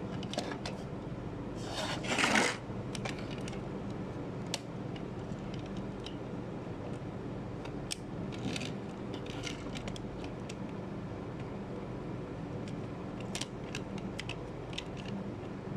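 Small hard objects being handled: scattered light clicks and clinks, and a louder scraping rustle about two seconds in, over a steady low hum.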